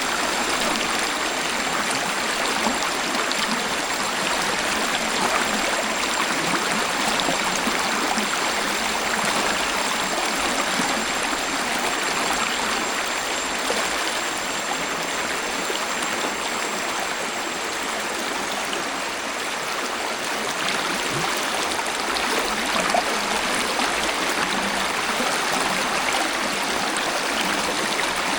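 Waterfall and flowing stream water rushing steadily, a continuous splashing hiss with no breaks.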